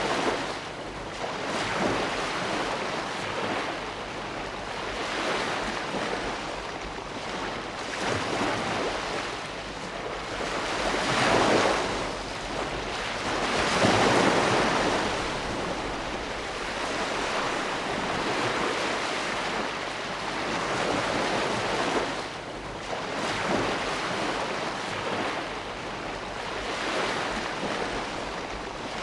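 Ocean waves breaking and washing on the shore in a continuous surf, swelling and ebbing every few seconds, with the biggest surges about eleven and fourteen seconds in.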